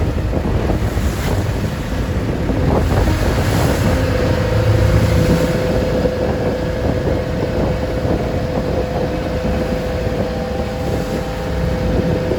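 Wooden passenger boat under way in rough sea: the engine running, waves washing against the hull and heavy wind buffeting the microphone. A steady hum comes in about four seconds in and holds.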